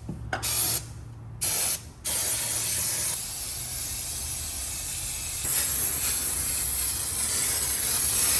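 Parts cleaner and degreaser being sprayed onto an engine to strip the last oil before painting. There are two short hissing bursts, then one long steady spray that gets louder about two-thirds of the way in.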